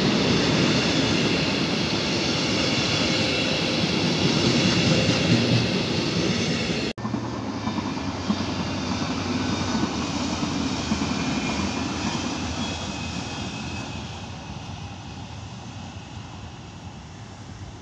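Electric locomotive-hauled double-deck regional train passing close by, a steady rolling rail noise with hiss. About seven seconds in the sound cuts abruptly to a second train heard further off, its rolling noise slowly fading.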